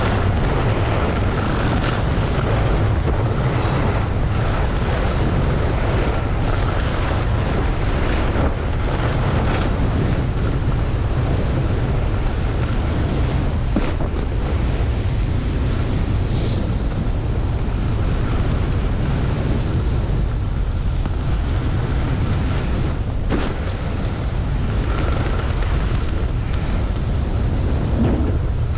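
Wind rushing over a helmet-mounted camera microphone at skiing speed, a loud steady low rumble, with skis hissing through powder snow.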